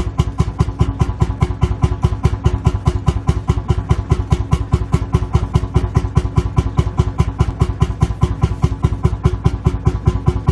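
Lanz Bulldog tractor's single-cylinder two-stroke hot-bulb engine idling, its firing strokes coming as a steady, evenly spaced beat.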